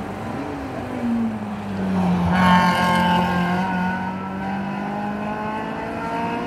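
Rally car engine at high revs, growing loud about two seconds in and holding a steady pitch, then rising in pitch near the end as the car accelerates.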